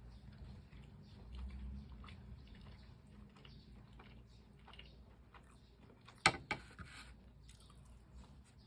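Close-miked chewing and biting of fried chicken: many small moist clicks and crunches over a faint low hum, with one sharp crunch, the loudest sound, about six and a half seconds in.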